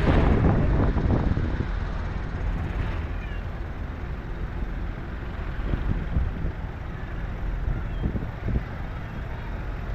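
Tractor engines running as the tractors pass, a low rumble that is loudest for about the first second and a half and then holds steady.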